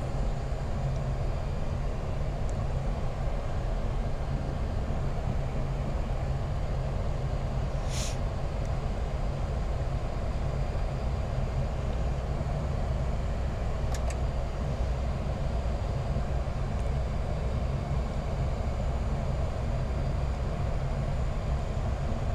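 Steady low rumble inside a Boeing 737 MAX 8 cockpit, from the running engines and the aircraft's air systems, with an engine start under way; it holds level throughout. Two brief clicks come about 8 and 14 seconds in.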